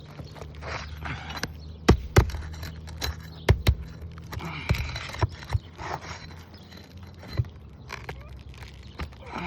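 Sharp knocks, clicks and scraping from hand work on brittle, old asphalt roof shingles while a damaged shingle and its staples are worked loose, with the shingles crackling.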